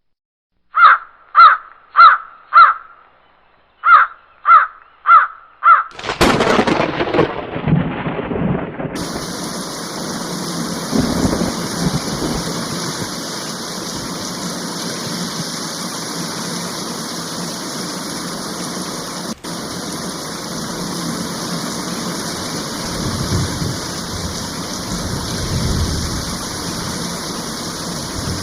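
A crow cawing, eight short harsh caws in two runs of four, then a roll of thunder about six seconds in that gives way to steady rain.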